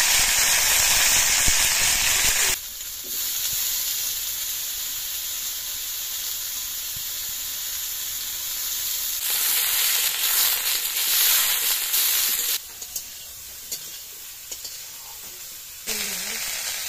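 Cauliflower florets sizzling as they fry in hot oil in an iron karahi, loudest at first and dropping abruptly after about two and a half seconds to a steadier hiss that swells again midway. A few light clicks in a quieter stretch near the end.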